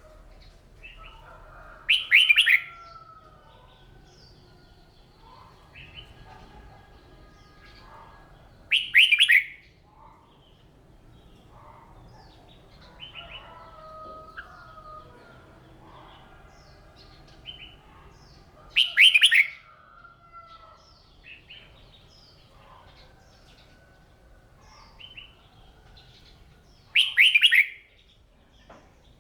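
Red-whiskered bulbul singing: four loud, short phrases spaced several seconds apart, with softer chirps and twitters between them.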